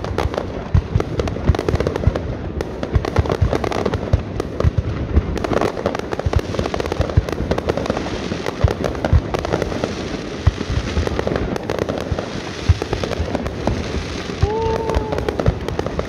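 Aerial fireworks display: a rapid, continuous barrage of bangs and crackles from bursting shells.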